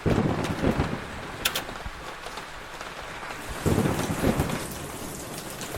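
Steady rain falling, with low rumbles of thunder swelling at the start and again about four seconds in.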